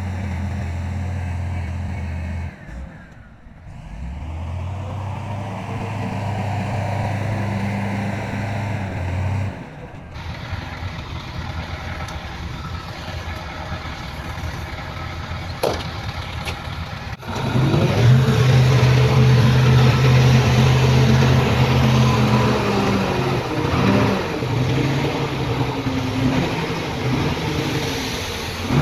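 Heavy diesel engines of earthmoving machinery running, with abrupt changes partway through and a louder, revving engine for the last ten seconds or so.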